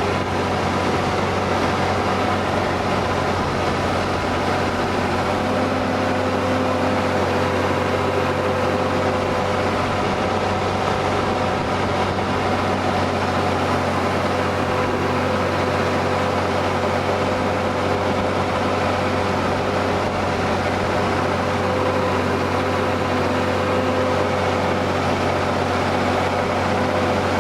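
Ford TW tractor's diesel engine running steadily under load while pulling a plough, its even drone unchanged throughout.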